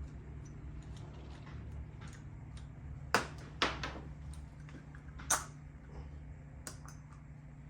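Small clicks and knocks of hand tools and parts handled on a small engine's bench, with three sharper clicks in the middle, over a steady low hum.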